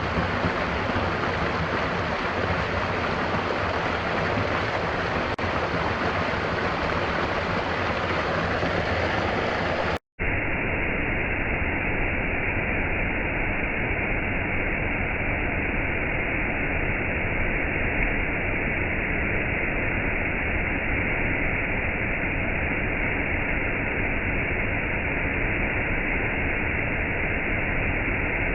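Steady rushing of falling water. About ten seconds in it drops out for an instant and comes back as a duller, more muffled hiss: a splice between two recordings.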